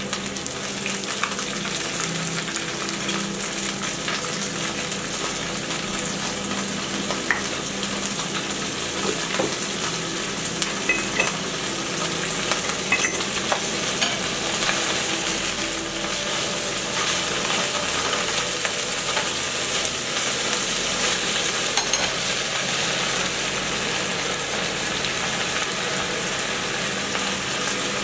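Food sizzling steadily in two frying pans of leafy greens and an egg mixture, with scattered light clicks as chopsticks stir it.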